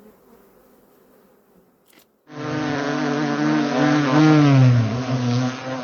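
Loud buzzing of a bee starting about two seconds in, its pitch wavering and dipping near the end.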